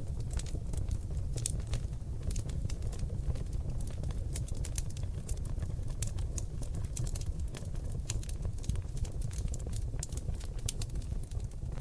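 Wood fire of seasoned oak logs burning in a fireplace: a dense, irregular run of sharp crackles and pops, several a second, over a steady low rumble of the flames.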